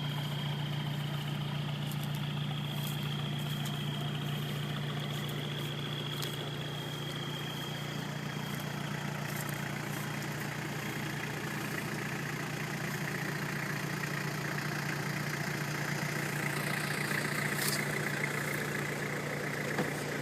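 2002 Toyota Hilux's 3-litre turbo-diesel idling steadily, a constant low hum.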